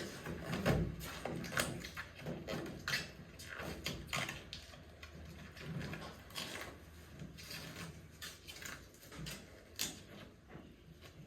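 Plasti Dip rubber coating being peeled off a truck's body by hand: irregular crackles and tearing sounds, fewer near the end.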